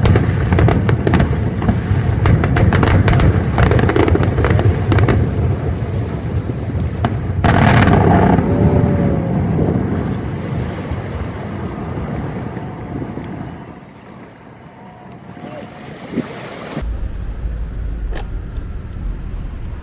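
Fireworks finale: rapid crackling and booming bursts over a deep rumble, ending with one big burst about halfway through. The rumble then dies away. After a sudden cut near the end, wind buffets the microphone.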